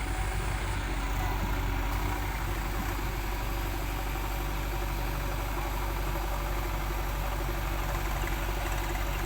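Heavy diesel engine idling steadily at low revs.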